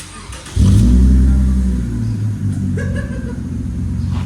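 Toyota Mark X's 3.5 L 2GR-FSE V6 starting up through an exhaust with its mufflers and back boxes removed. It catches about half a second in with a loud flare, then settles into a steady, throaty idle.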